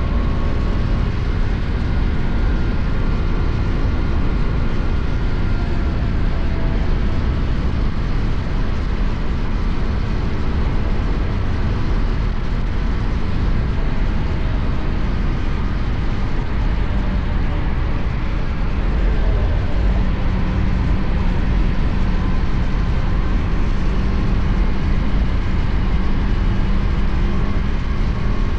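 KTM Duke 250's single-cylinder engine running steadily at highway speed, mixed with a loud, even rush of wind and road noise. About twenty seconds in, a steady low engine hum comes up and holds.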